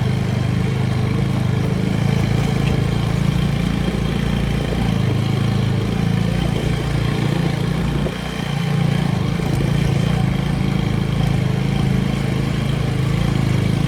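TVS Apache motorcycle engine running steadily under way, with a brief drop in level about eight seconds in.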